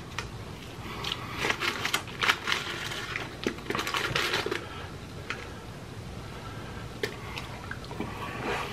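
Close-miked chewing of fried chicken and fries, with scattered clicks as a metal fork picks at the fries.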